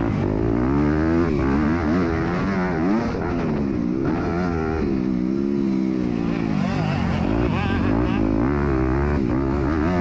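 MX2 motocross bike engine at race pace, its pitch rising and falling repeatedly as the rider works the throttle through the gears, heard up close from an onboard camera.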